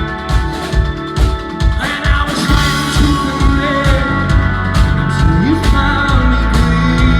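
Rock band playing live: drum kit keeping a steady beat under guitars and bass.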